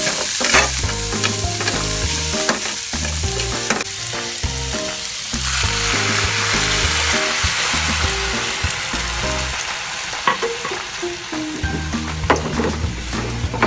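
Diced onions sizzling in hot oil and butter in a frying pan, with a utensil scraping and knocking as they are stirred. About five seconds in, chicken broth is poured into the pan and the hiss swells, then settles as the liquid simmers.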